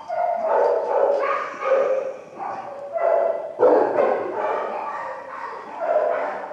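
Dog barking repeatedly, a string of pitched barks about one every second or so.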